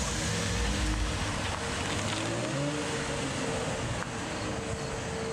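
Chevrolet Camaro pulling away from the curb, its engine revving up and then fading as it drives off.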